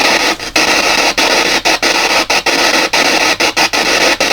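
PSB7 spirit box sweeping through radio stations: loud, steady static hiss, broken by brief dropouts a few times a second as it jumps between frequencies.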